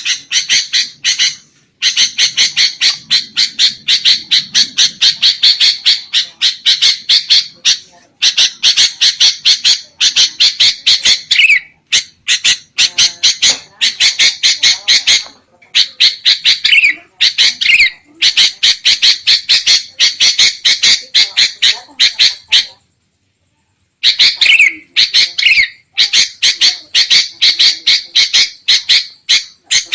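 Sooty-headed bulbul's agitated scolding chatter: fast runs of sharp, harsh notes, several a second, broken by short pauses, with about a second of silence roughly three-quarters of the way through.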